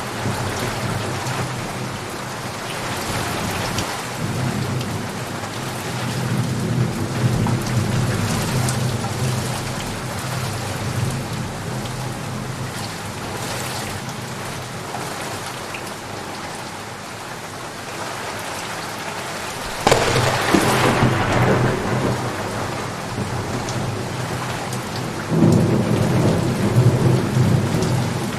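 Steady heavy rain with rolling thunder rumbling underneath. A sudden loud thunderclap breaks in about two-thirds of the way through, and another loud crack of thunder follows a few seconds later near the end.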